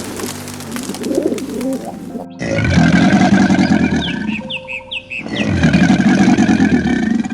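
Pigeons or doves cooing for about two seconds, then an abrupt cut to a louder animal recording, a dense low sound with a few short rising chirps in the middle.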